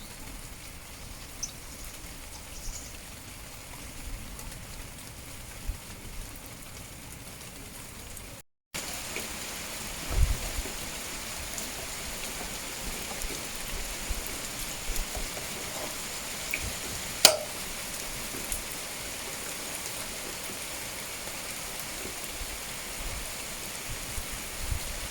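Steady rain falling, with scattered drops tapping. The sound cuts out for a moment about eight seconds in and comes back louder, and one sharp single tap stands out about two-thirds of the way through.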